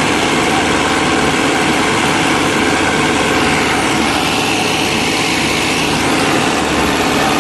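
Tractor diesel engine running steadily at a constant pitch, a loud continuous mechanical drone.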